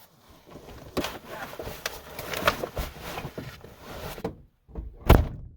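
Scattered knocks and clatter of hard objects being handled, then one loud thump about five seconds in.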